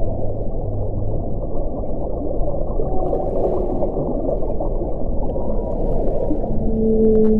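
Deep wind rushing without a break, with a low moaning howl. Steady low tones fade in and out over the noise, a deeper one near the start and higher ones toward the end.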